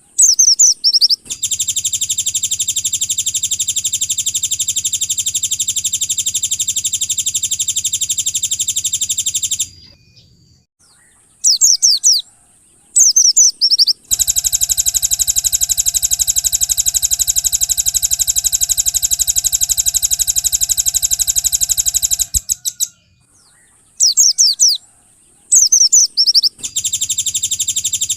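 Recorded songbird calls: short bursts of quick, high, descending chirps alternate with long, very rapid buzzing trills that each run about eight seconds.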